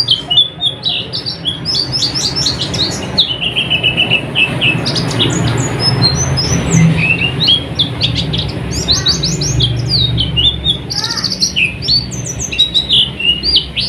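Pleci (white-eye) singing a rapid, continuous twittering of short high chirps and trills, with a faint low hum underneath.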